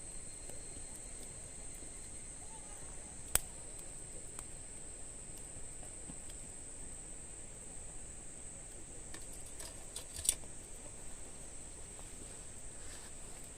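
Wood fire burning with faint crackles and two sharp pops, about three seconds in and about ten seconds in, over a steady high-pitched insect drone.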